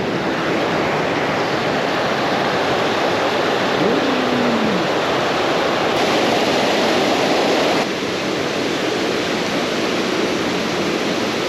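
Steady rush of creek water, an even hiss that drops a little about eight seconds in.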